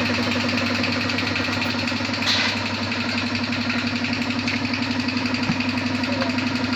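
A motor-driven machine running steadily with a fast, even pulsing over a low hum and a hiss. There is a brief hissing burst about two seconds in.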